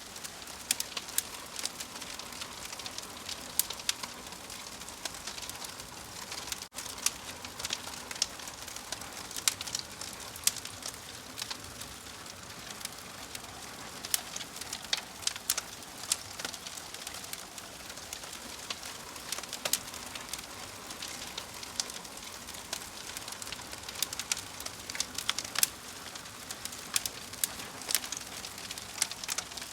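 Wood fire crackling: a steady hiss with frequent sharp pops and snaps scattered throughout, and a brief dropout about seven seconds in.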